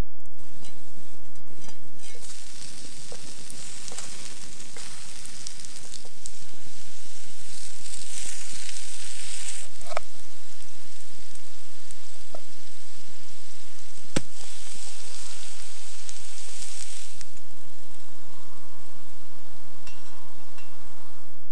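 Food frying in a pan over a campfire: a dense sizzle that swells about two seconds in and dies down near the end, with a few sharp pops.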